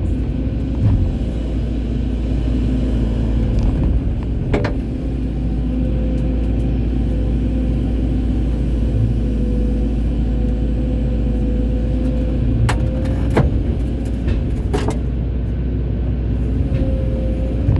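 Excavator diesel engine running steadily under work, a low rumble with a slightly wavering steady tone above it. A few sharp knocks, one about four and a half seconds in and three more later on.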